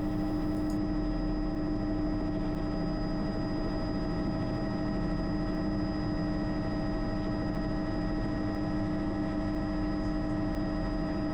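Bell 206 JetRanger helicopter running steadily, heard from inside the cabin: a constant turbine whine above a steady low hum from the rotors and drivetrain.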